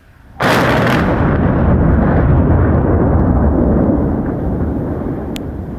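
Explosive demolition of a bridge section: a sudden loud blast about half a second in, followed by a long rumble that slowly fades.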